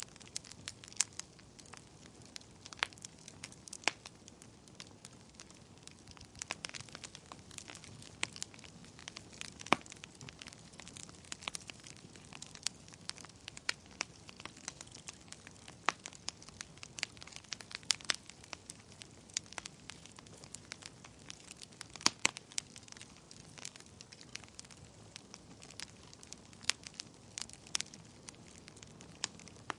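Wood fire burning in a fireplace, crackling and popping irregularly over a low steady hiss, with a few sharper pops such as near ten seconds and about twenty-two seconds in.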